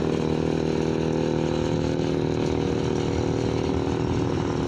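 Small brush-cutter engine powering a homemade mini bike, running steadily under way.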